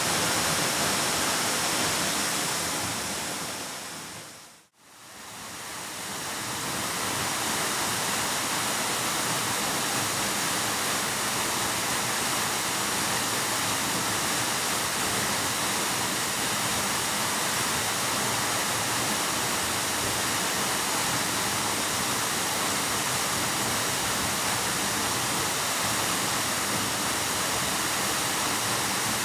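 Waterfall rushing in a steady, full roar of falling water. About four seconds in, it fades briefly to silence and then fades back up.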